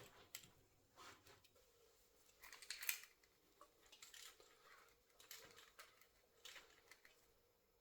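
Faint, scattered clicks and light metallic taps of small engine parts and tools being handled on a bench, the loudest cluster about three seconds in.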